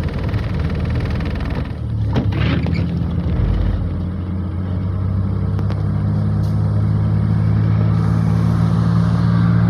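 Car engine and road noise while driving, with the engine's low hum settling into a steady drone from about four seconds in.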